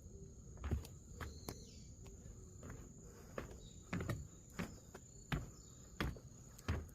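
Footsteps of a person walking along a path at an easy, uneven pace, with a steady high thin insect-like tone behind them.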